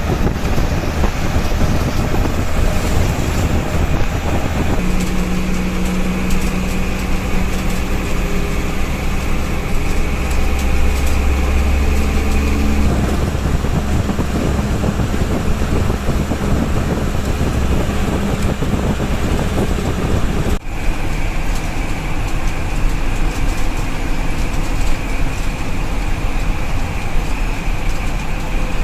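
Tata diesel bus engine running under way, with steady road noise. The engine note shifts twice, about five and thirteen seconds in.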